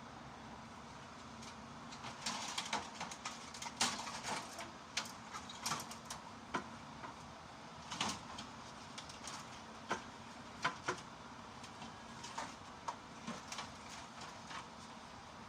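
Irregular clatter of knocks and clanks as metal fluorescent light housings are handled and set down, starting about two seconds in and thinning out near the end, over a steady low hum.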